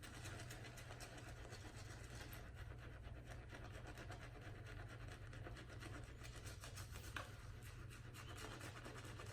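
Silvertip badger shaving brush working soap into a lather: a faint, continuous scratchy swishing of the bristles.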